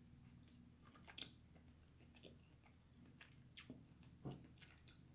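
Faint mouth sounds of chewing crab meat, with a few scattered soft clicks of fingers picking at crab-leg shells.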